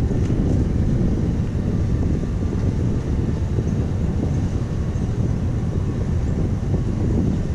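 Wind buffeting the microphone of a camera carried on a moving bicycle: a steady low-pitched noise with no letup.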